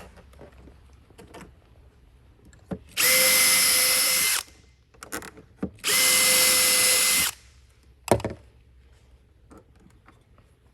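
Power drill running in two steady bursts of about a second and a half each, driving screws into the desk frame. A single sharp knock follows about eight seconds in.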